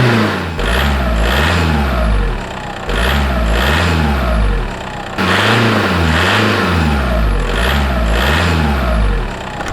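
Tractor engine revving up and down over and over in a quick, even rhythm, in three runs about two, two and four seconds long, with short dips between them.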